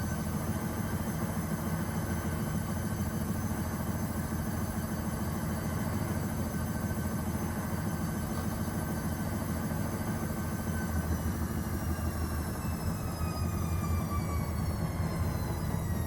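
Gorenje WA72147 washing machine's Selni motor running with a steady hum and a high whine; near the end the whine falls in pitch as the motor slows down.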